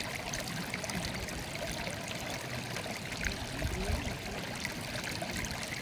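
Running water in a small stream murmuring steadily, with a few little gurgles about three to four seconds in.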